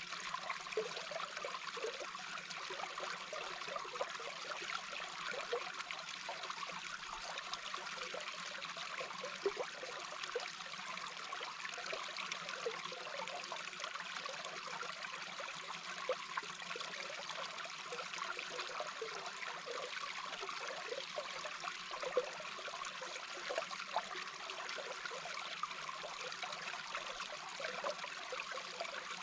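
Small brook heard underwater: a steady rush of flowing water with many small bubbling pops and gurgles throughout, a few of them briefly louder.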